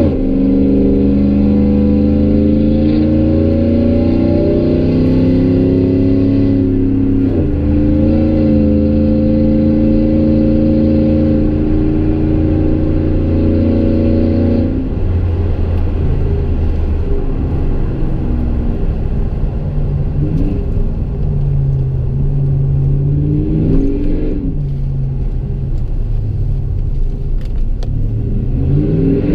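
Exhaust note of a 2015 Chevy Silverado's 5.3-litre V8 with long-tube headers and a Gibson MWA muffler and no resonator, heard from inside the cab while driving. The engine note climbs steadily, breaks briefly about seven seconds in, and climbs again. About halfway through it falls to a lower, wavering note, then rises again near the end.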